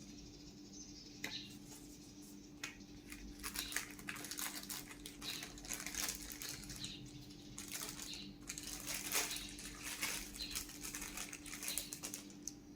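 Watch packaging being handled and opened by hand: scattered clicks, taps and crinkling rustles, busiest from about three seconds in, over a faint steady hum.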